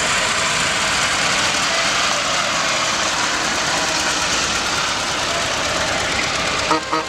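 A vehicle engine running steadily at idle close by, with a brief sharp sound near the end.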